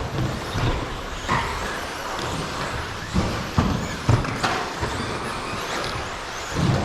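13.5-class brushless electric RC stadium trucks running on the race track: motor whine and tyre noise, with several sharp knocks scattered through.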